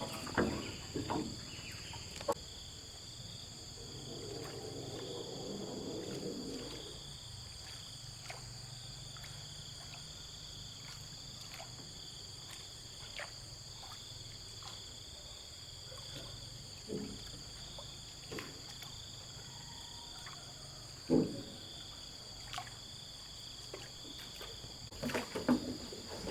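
Steady high insect drone, as of crickets, with scattered short knocks and a soft rustle for a few seconds; a louder clunk comes about 21 seconds in and a cluster of knocks near the end.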